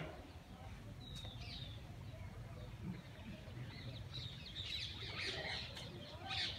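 Small birds chirping: a few quick calls about a second in, then a dense run of overlapping chirps from about four seconds in.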